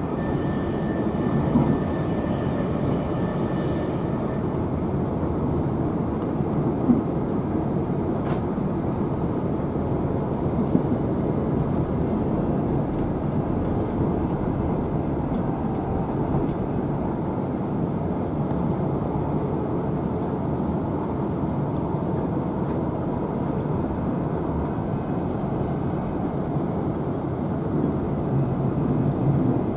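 Steady running noise of a Queensland Rail NGR electric multiple unit heard from inside the carriage: an even, low rumble of wheels and running gear while the train travels at speed.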